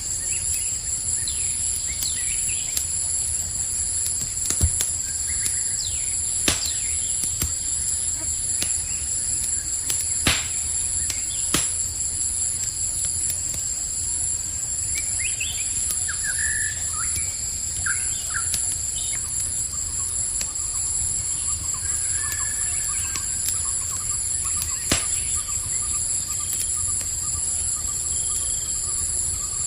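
A campfire crackling, with a handful of sharper pops, over a steady high-pitched chorus of crickets. Short bird chirps come in near the middle, followed by a thin, steady trilling call through the second half.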